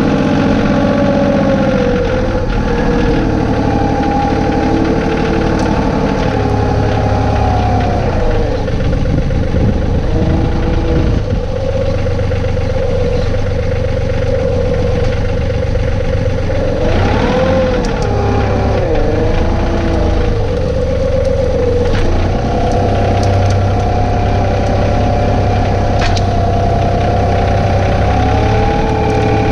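John Deere 2032R compact tractor's three-cylinder diesel running steadily, with a whining tone that glides down and back up several times as the tractor works, most clearly about a third of the way in and just past halfway.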